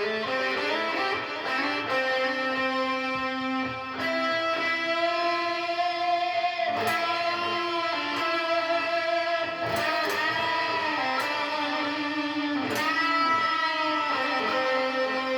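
Electric guitar playing a short melodic lead solo: held notes and double stops, with a couple of notes bent up in pitch.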